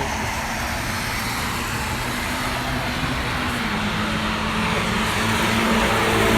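A car's engine on a race track over a steady hiss, getting louder as the car approaches through the second half.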